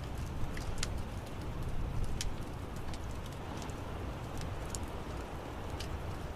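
Fire in an outdoor fireplace crackling: irregular sharp pops and snaps over a steady low rumble of the flames.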